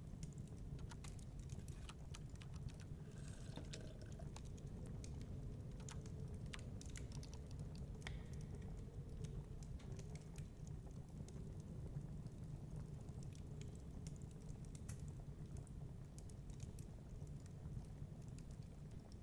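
Wood fire crackling, with scattered sharp pops and clicks, over a steady low rumble of storm wind.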